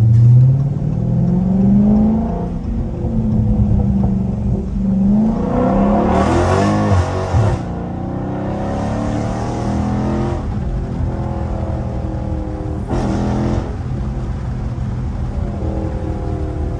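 Dodge Charger Scat Pack's 392 HEMI V8 accelerating hard from a stop, heard from inside the cabin. The engine pitch climbs and drops back at each of about three upshifts, then settles into a steady cruise.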